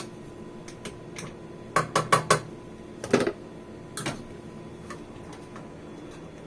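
A metal spoon tapping and clinking against the rim and side of a cooking pot to knock off sauce: a quick run of four taps about two seconds in, louder knocks around three and four seconds, then a few faint clicks.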